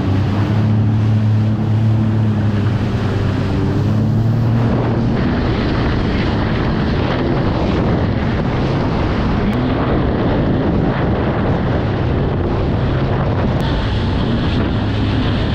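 Jet ski engine running under way, with wind buffeting the microphone and water rushing. The steady engine hum is clearest for the first five seconds, then is mostly covered by wind and water noise.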